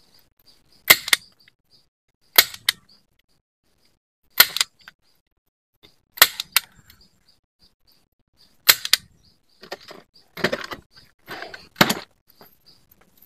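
A series of sharp blows, about one every two seconds, like a tool striking wood, then a few longer, rougher strokes close together near the end.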